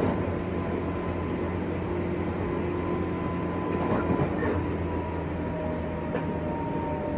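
JR West 201 series electric train running, heard from inside a motor car: a steady rumble of wheels and running gear, with several held electrical tones from the thyristor-chopper traction equipment and a few light clicks over rail joints.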